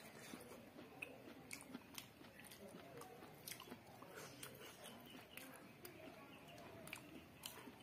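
Faint close-up chewing of a mouthful of rice and chicken, with irregular wet mouth clicks and smacks.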